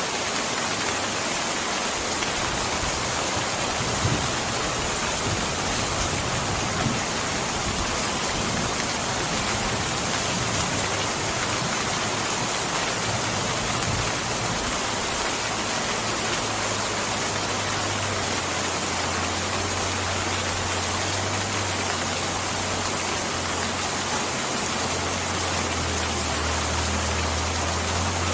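Steady, continuous rain hiss, with a low rumble swelling in and out in the second half and a couple of small pops early on.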